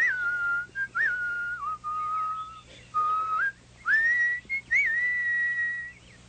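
A person whistling a birdsong imitation: quick upward swoops that settle into long held notes, a few short slides and breaks between phrases.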